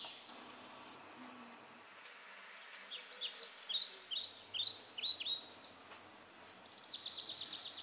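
A songbird singing: a series of quick high chirps, each sweeping downward, from about three seconds in, running into a fast trill near the end, over a faint steady hiss.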